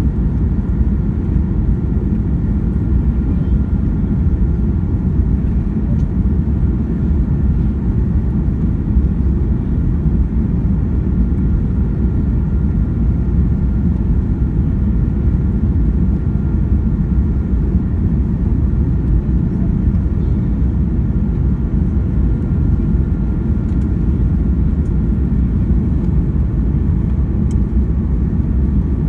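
Boeing 737-800 cabin noise: a steady low rumble of its CFM56 engines and airflow, with a faint steady high whine.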